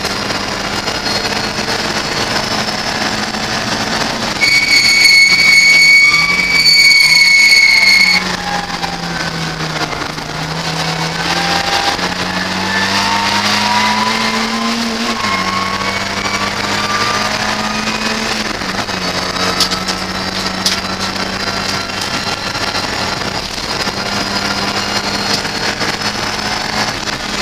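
Ford Fiesta race car's engine heard from inside the cabin, rising in pitch as it pulls through a gear, dropping at each upshift and falling away as the car slows. About four seconds in, a loud, steady high-pitched squeal cuts in for about four seconds.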